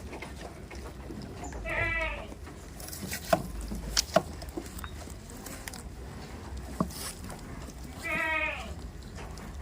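A goat bleating twice, each a short wavering call, about two seconds in and again near the end, with a few sharp clicks in between.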